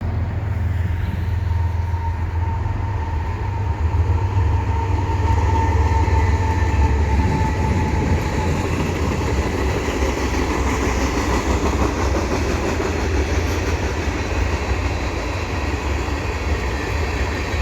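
A CN freight train passing at close range: a steady, deep diesel rumble with the noise of rail cars rolling over the track. A thin high whine sits over it for the first several seconds, then fades.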